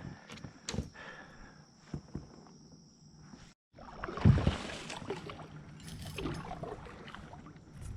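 Kayak hull bumping and scraping through sticks and brush in shallow water, with scattered knocks and some water noise. The sound cuts out completely for a moment about three and a half seconds in.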